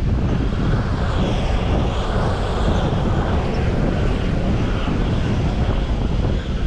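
Jet aircraft engine noise, a rushing sound that swells from about a second in and eases near the end, over strong wind rumble on the microphone.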